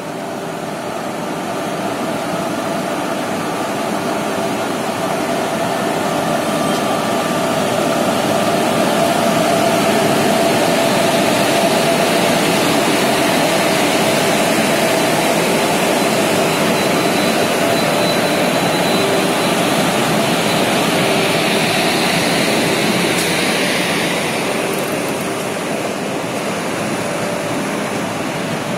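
Indian Railways WAG-7 electric freight locomotive and its goods wagons rolling past close by: a loud, steady rush of machinery and wheels on rail with a low hum, swelling over the first several seconds and easing a little near the end as the wagons follow.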